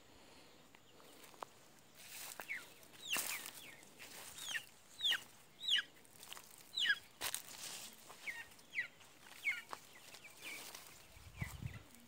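Birds chirping: about a dozen short chirps, each sliding down in pitch, starting about two seconds in, with some rustling and crunching underneath.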